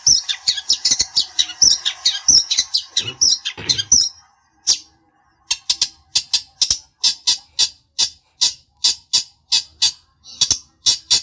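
Long-tailed shrike (cendet) singing: a rapid, dense chattering warble for about four seconds, then, after a short pause, a run of harsh, evenly spaced calls at about three a second. It is a lure song meant to provoke a rival shrike into answering.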